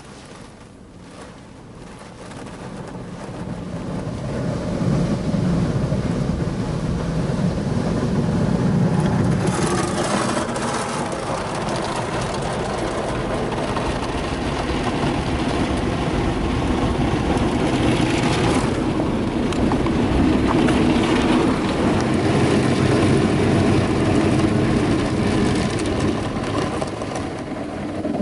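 Rotating brushes of a PDQ ProTouch Tandem car wash scrubbing against the car, heard from inside the cabin: a steady swishing noise that builds over the first few seconds, with two louder hissing surges about ten and eighteen seconds in.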